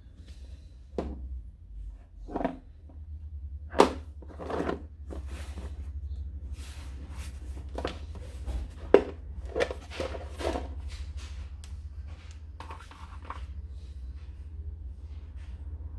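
Handling noises from a tubeless tyre repair kit: a series of sharp knocks and clicks with rustling and scraping in between, the two loudest knocks about four and nine seconds in, over a steady low hum.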